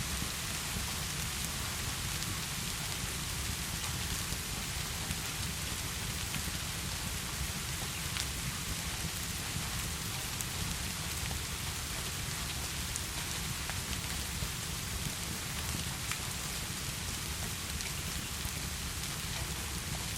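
Steady heavy rain falling, with a low rumble underneath and scattered faint crackles from a wood fireplace.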